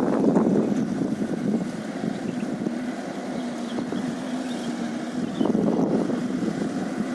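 Heavy diesel dump truck engines running as the trucks drive past, louder again near the end, with a steady low engine hum in between.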